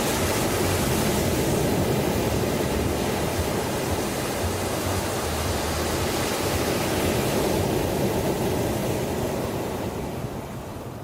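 Sea waves surging and washing ashore in a continuous rush, easing off near the end as a wave recedes.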